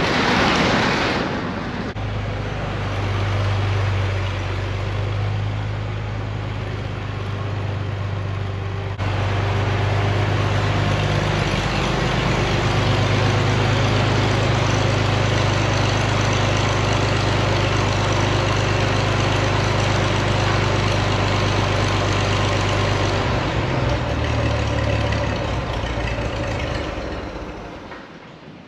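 Old farm tractor engine idling steadily, a low even hum, with a short loud rush of noise at the start and its tone shifting a few times along the way.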